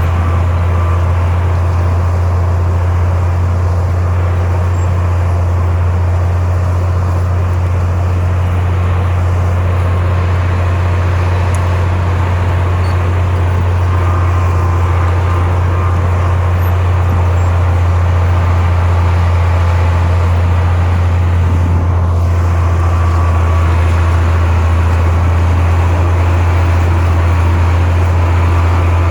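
Heavy construction machine's diesel engine running steadily, a constant low drone with no change in speed or load.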